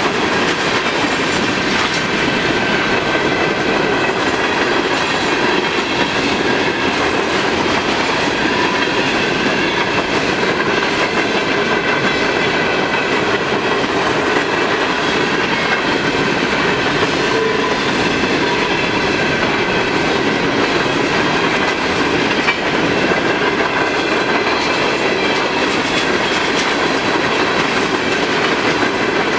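Empty high-top hopper cars of a long freight train rolling past steadily, their steel wheels running on the rails.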